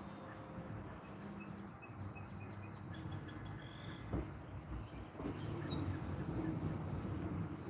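A bird chirping a quick run of short, high notes over outdoor background noise, with a single knock about four seconds in and a low rumble building near the end.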